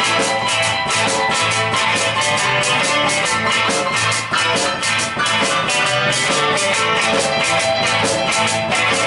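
Live rock band playing, with guitar over a drum kit keeping a steady, even beat.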